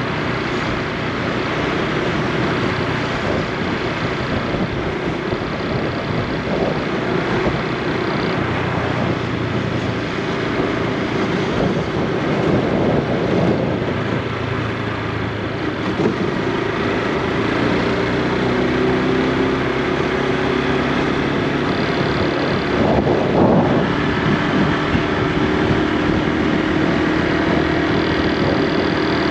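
Honda Super Cub C125's 125 cc single-cylinder engine and exhaust running while riding, with wind noise on the microphone. The engine pitch shifts with speed partway through.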